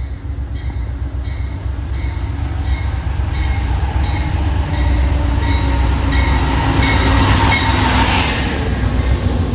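Amtrak Downeaster passenger train running into the station, with a heavy steady diesel rumble. A bell rings steadily about twice a second. The train noise swells louder near the end as it draws close.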